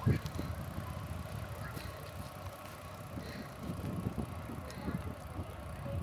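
Bicycle being ridden: uneven low rumble of wind on the microphone and tyres on the path, with a few faint ticks.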